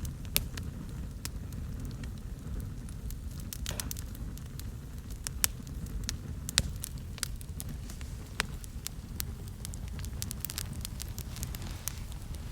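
Wood campfire burning on a split log, crackling and popping irregularly over a steady low roar of flame.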